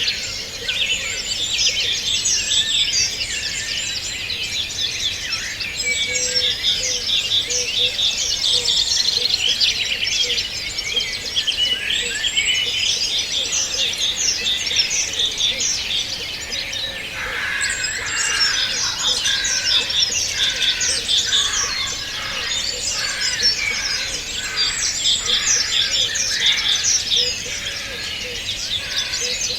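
A chorus of many small birds chirping and singing at once, a dense, unbroken run of high, rapid notes and trills. From about halfway through, a lower-pitched song with repeated notes joins in.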